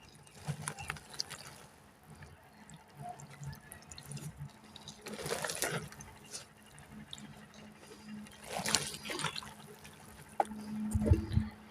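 Water being poured and trickling onto crumbled dry mud, with small drips and two louder pours about five and eight and a half seconds in. A few low thuds come near the end.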